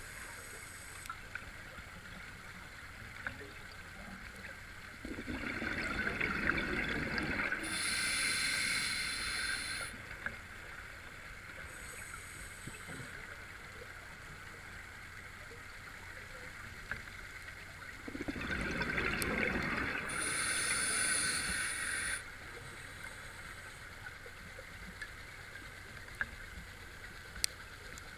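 Scuba diver breathing underwater through a regulator. Twice, a rumble of exhaled bubbles is followed by the hiss of the regulator on the inhale, with long quiet pauses between breaths and a few faint clicks.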